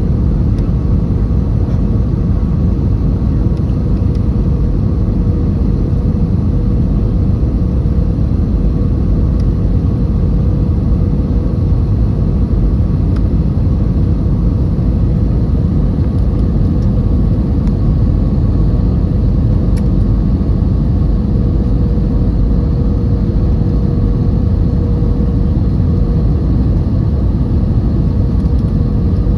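Steady cabin noise inside an Airbus A320 airliner: an even, loud rumble of engines and rushing air with a faint steady hum running through it.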